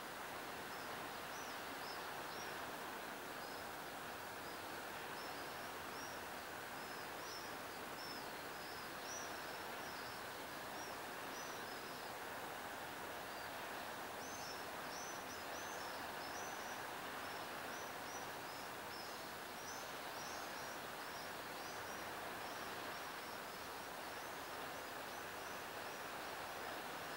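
Birds chirping, many short high notes in quick succession with a brief lull around the middle, over a steady rushing background noise.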